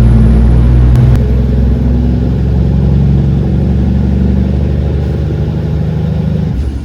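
Semi truck's diesel engine running steadily and loud, its level easing off slightly about a second in.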